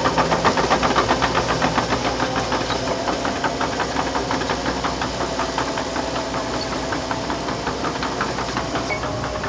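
Liebherr PR 726 crawler dozer working: its diesel engine runs under a steady whine while the steel tracks clank in a regular rhythm of about four to five clacks a second, growing gradually fainter.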